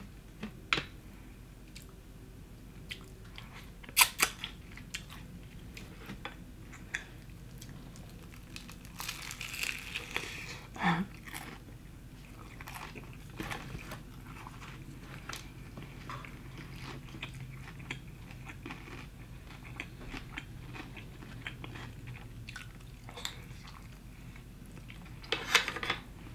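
Close-up biting and chewing of crunchy fried chicken, with sharp crunches about four seconds in, again around ten seconds, and near the end.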